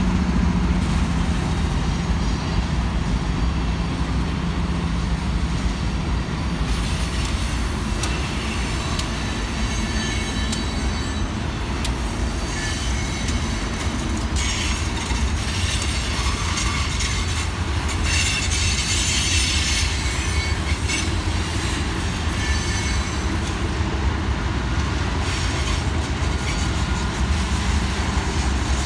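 Freight train rolling past: a steady low rumble of wheels on rail, with a diesel locomotive's engine hum strongest at the start. From about seven seconds in, the wheels screech and squeal in high patches with scattered clanks, easing off near the end.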